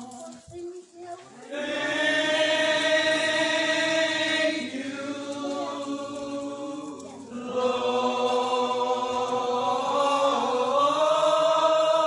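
Voices singing a slow hymn, in two long drawn-out phrases with notes held for several seconds.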